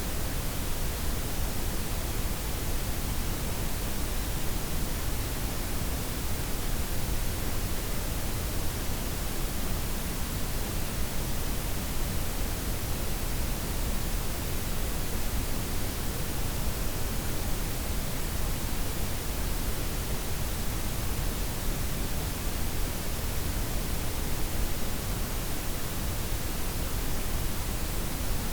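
Steady synthetic noise: white, pink and brown noise layered together, a smooth even hiss with a deep rumble underneath, unchanging throughout.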